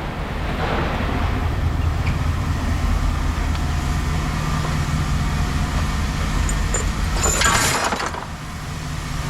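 An engine or machine drones steadily at a low pitch, and about seven seconds in a short burst of clattering, clinking scrap metal rises over it.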